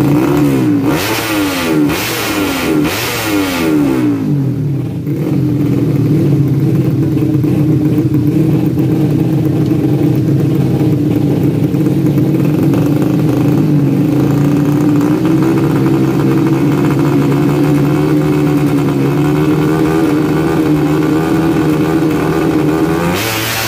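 Tuned 130cc four-stroke underbone drag bike engines revving. Several pitches sweep up and down across each other in the first few seconds, then the engines are held at steady revs, with a louder burst of noise near the end.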